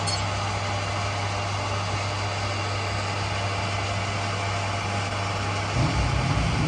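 Workshop machinery running with a steady low hum. About six seconds in, a louder, rougher low rumble sets in.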